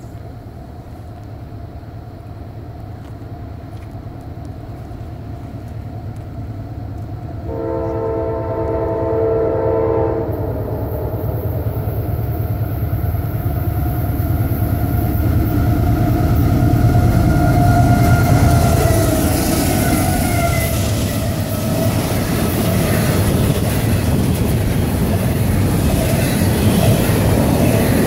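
Freight train approaching and passing: a low rumble builds, the locomotive's multi-note air horn sounds one blast of about three seconds roughly eight seconds in, and the locomotive noise peaks and falls in pitch as it goes by. The passing double-stack container cars follow with a steady rumble and clatter of wheels on rail.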